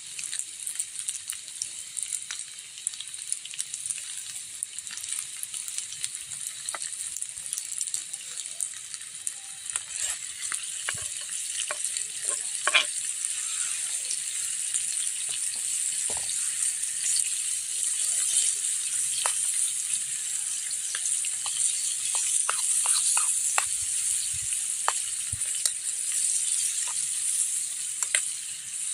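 Food sizzling in hot oil in a pan, with scattered small pops and clicks of stirring. The sizzle grows louder about halfway through.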